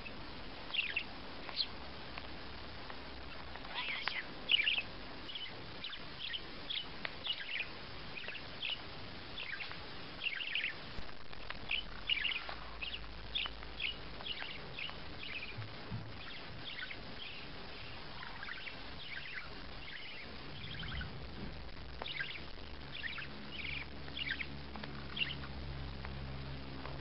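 Small bird chirping: short, high chirps that drop quickly in pitch, coming irregularly and sometimes several a second, with a thinner spell partway through.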